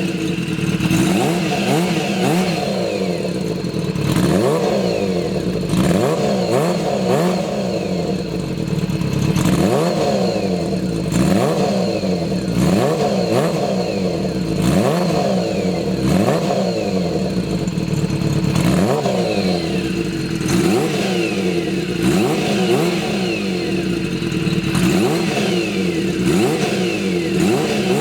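Kawasaki Z400FX's air-cooled inline-four engine, freshly overhauled, idling and blipped on the throttle again and again, about one quick rev every two seconds that rises and falls back to idle.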